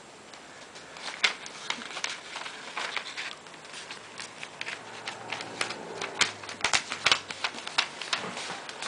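A sheet of paper being folded and creased by hand: irregular crisp crackles and rustles, coming thicker in the second half.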